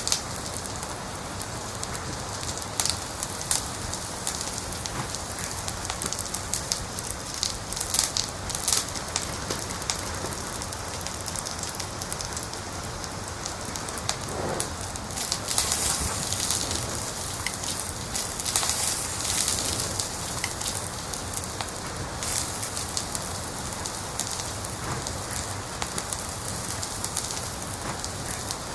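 Wood fire burning in a fireplace, a steady hiss of flame with frequent sharp crackles and pops, growing busier for a few seconds about halfway through.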